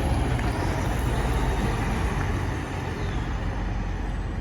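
Large truck's engine running as it drives through a turn: a steady low rumble that eases off slightly partway through.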